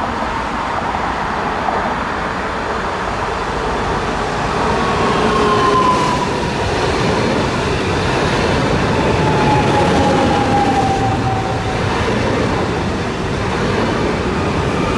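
A train running along the tracks with a steady rumble of wheels on rail. Around the middle come a few brief high whining tones that slide slightly lower.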